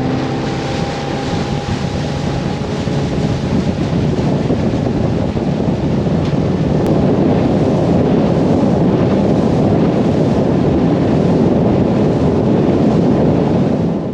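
Boat under way on the water, a loud steady rush of motor, water and wind with wind buffeting the microphone.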